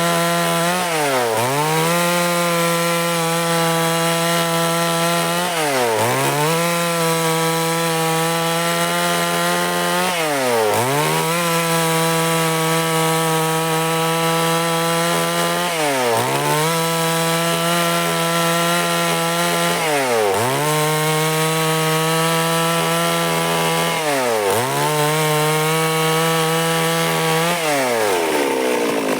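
Stihl MS 382 two-stroke chainsaw running at high revs while sawing along a log into boards. Its engine note dips sharply and comes back up about every four to five seconds, and falls away near the end.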